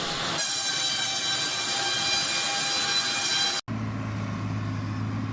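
Wood chipper on a compact loader running with a steady high-pitched whine. About three and a half seconds in it cuts off abruptly to a lower steady engine hum.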